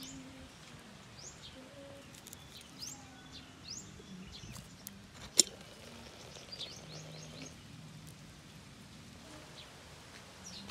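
Wild birds chirping outdoors: scattered short, quick sweeping calls, with one sharp click about five seconds in.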